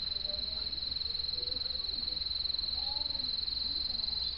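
Crickets chirring in a steady, unbroken high trill, over a low steady hum.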